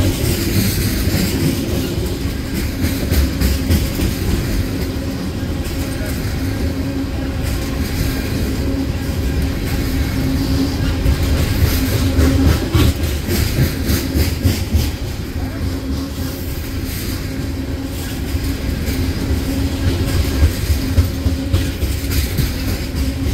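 Freight train of tank cars rolling past close by: a steady rumble of steel wheels on rail, with repeated clicks as the wheels cross rail joints.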